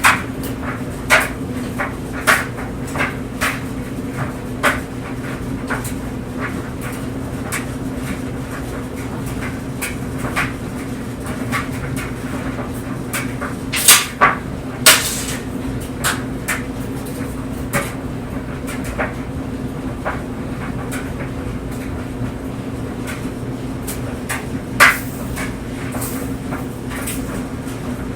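Clothes dryer running with a steady hum while clothes tumble in the drum, giving irregular knocks and clicks, with a few louder thuds about halfway through and again near the end.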